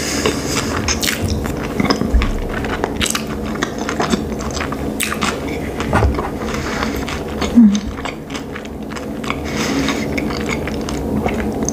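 Close-miked chewing of a sushi roll, with many small irregular mouth clicks. A brief low hum about seven and a half seconds in.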